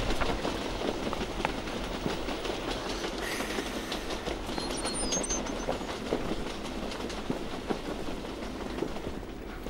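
Train running on rails, its wheels clattering over the track, with a few brief high squeaks about five seconds in.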